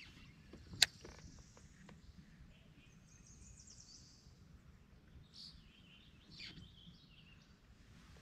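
Faint songbirds calling in short, high chirps over low steady background noise. About a second in there is a single sharp click, the loudest sound.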